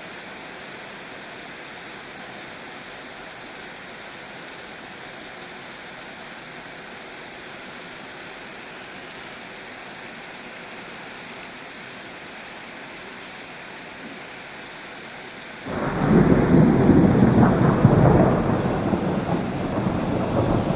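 Steady rain hissing, then about three-quarters of the way through a loud thunderclap breaks in suddenly and rumbles on, slowly easing off.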